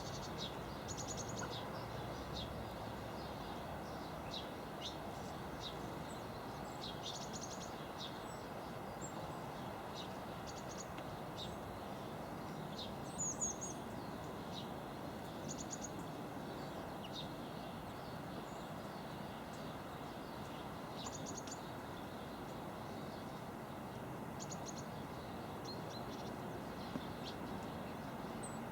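Small garden birds calling with short high chirps and quick runs of three or four notes every few seconds, the loudest call about halfway through, over a steady low background rumble.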